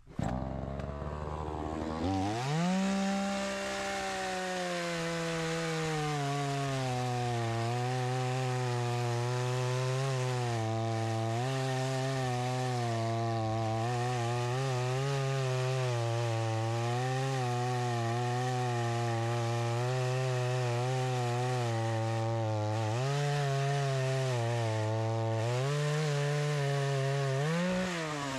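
Two-stroke chainsaw revved up about two seconds in, then held at high speed cutting through a log, its pitch dipping and recovering as the chain bites into the wood. It comes off the throttle near the end.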